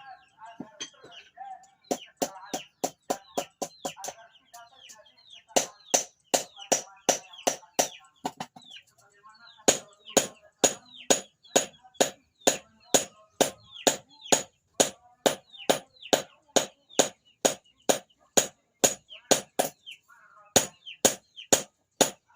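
Hand hammer beating a hot steel blade on an anvil in runs of sharp, ringing strikes, about two to three a second, with short pauses between runs. Chickens cluck faintly between the blows.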